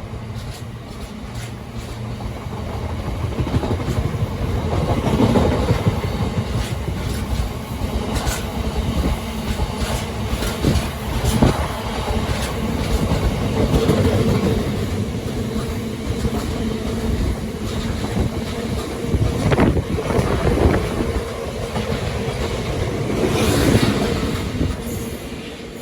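Freight train rolling through, its wagon wheels clattering over rail joints over a steady rumble, dying away near the end.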